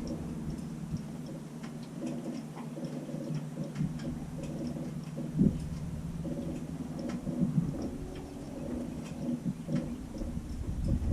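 Light aircraft's engine running at low power, a steady low hum with scattered light clicks.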